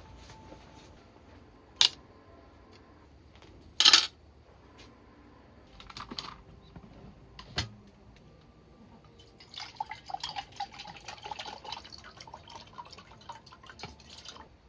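A few sharp knocks and clatters of things being handled, the loudest about four seconds in, then about five seconds of water splashing and dripping with a gurgling ring.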